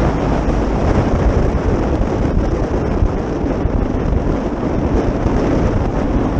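Steady rumbling noise of a vehicle on the move, with wind buffeting the microphone.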